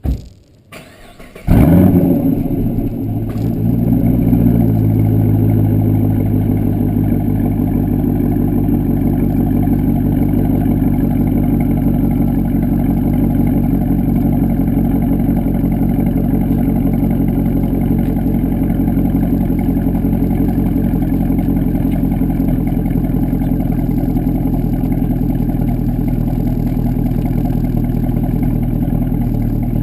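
2009 Pontiac G8 GXP's 6.2-litre LS3 V8 with an aftermarket Corsa exhaust starting up. It catches suddenly about a second and a half in with a brief flare of revs, then settles into a steady idle by about five seconds.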